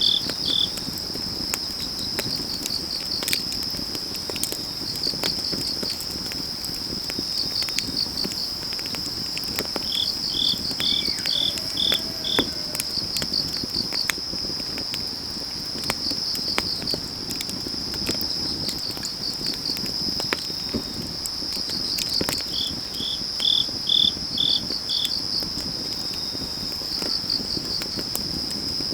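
Autumn night insects: a steady high trill under repeated short chirp series from crickets, two lower, louder chirp runs about a third of the way in and again near the end. Scattered sharp pops and crackles of burning firewood come through a low rushing haze.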